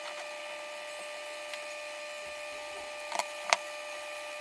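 A steady hum of several held tones, with a few sharp clicks a little over three seconds in, such as parts being handled on a workbench.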